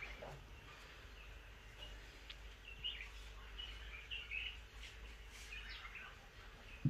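Birds chirping faintly, scattered short high calls over a steady low hum, with a single low knock right at the end.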